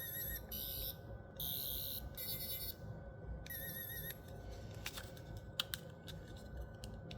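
Plastic toy sonic screwdriver's electronic sound effect: several short bursts of high, warbling buzz from its small speaker in the first four seconds, then a few faint clicks. The toy works only intermittently.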